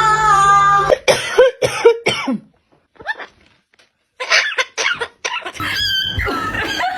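A parrot making a series of short cough-like sounds with brief curling calls between them, broken by a pause of about a second and a half. Music starts near the end.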